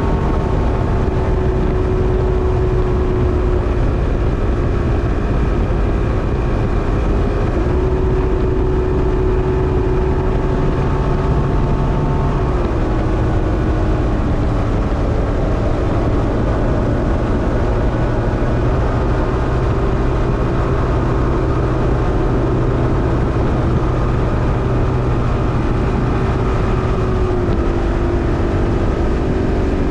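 Mercury 150 Black Max XR4 V6 two-stroke outboard running steadily, its pitch dipping slightly about twelve seconds in and again near the end.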